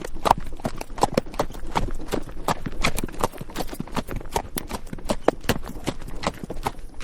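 Horse's hooves clopping over rocky dirt at a walking pace, an uneven run of sharp knocks, several a second.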